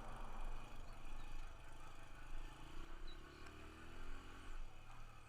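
Dirt bike engine running as the bike rides, its pitch rising for a couple of seconds in the second half as it accelerates in third gear.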